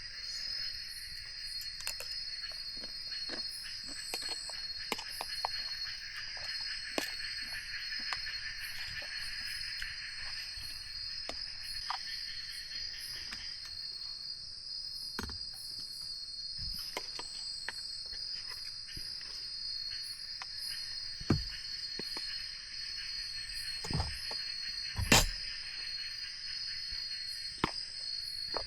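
Insects in the forest at night, a steady high buzz with rhythmic chirps repeating over it, broken by scattered light clicks and a few louder knocks near the end.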